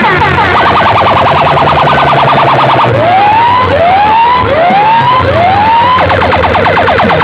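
Electronic siren effect played loud through a DJ sound system: a fast warbling chirp, then four rising whoops, then the fast warble again.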